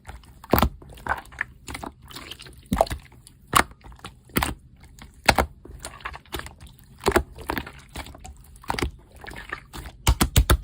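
Slime being squeezed and poked, with wet irregular pops and clicks about one or two a second and a quick run of pops near the end.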